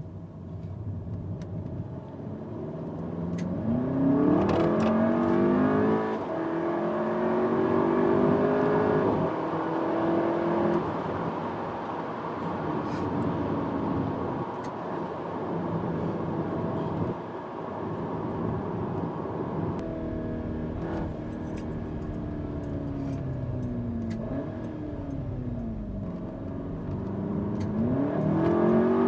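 Cupra's turbocharged four-cylinder engine heard from inside the cabin, pulling hard through the gears: the engine note climbs in pitch and drops back at each change in the first third. It then winds down with falling revs and climbs again near the end, revving freely in race mode with a loud exhaust.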